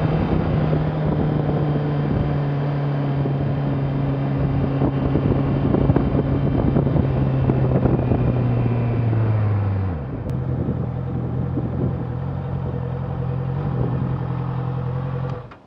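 Honda CBR650's inline-four engine heard from the rider's helmet camera: its note falls slowly as the bike slows down, settles into a steadier, quieter running from about ten seconds in as it rolls into a parking space, then stops abruptly near the end.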